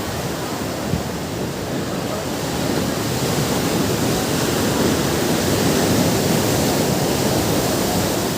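Ocean surf washing onto a beach: a steady rush of breaking waves that swells a few seconds in and eases off near the end.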